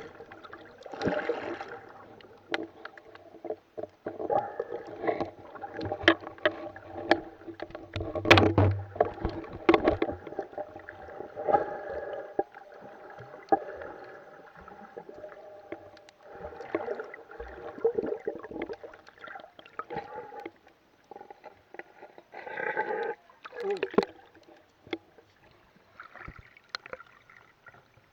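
Kayak paddling on open water: paddle strokes with splashes and irregular sharp knocks, the loudest about eight seconds in.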